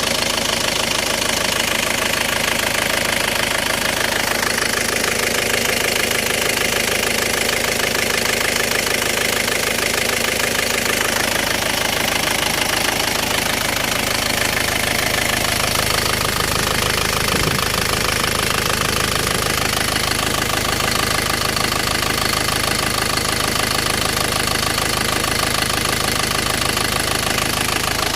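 Isuzu 4JA1 four-cylinder diesel engine running steadily at idle with its diesel clatter, on an engine whose owner reports hard starting and low power.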